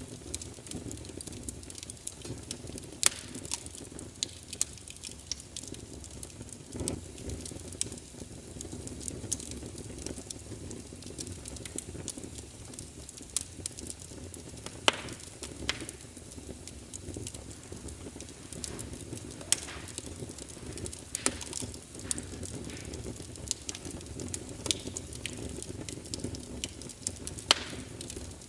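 Wood fire burning in a fireplace: a steady low rush of flames with frequent small crackles and occasional louder pops.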